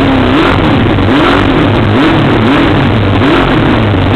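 Suzuki GSX-R750 SRAD race bike's inline-four engine, breathing through a full titanium Arrow exhaust, being revved in short throttle blips, the pitch rising and falling about every three-quarters of a second.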